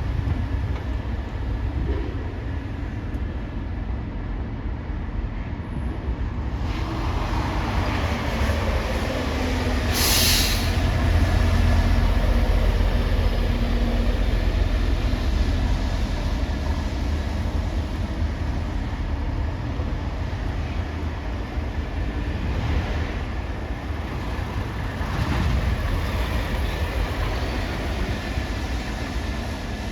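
Heavy vehicles rumbling at low speed, the rumble building about seven seconds in, with a short sharp air hiss about ten seconds in and fainter hisses later.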